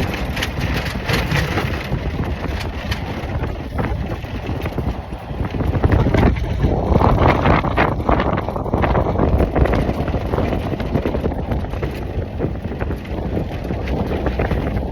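Wind buffeting the microphone in irregular gusts over the low rumble of a moving truck.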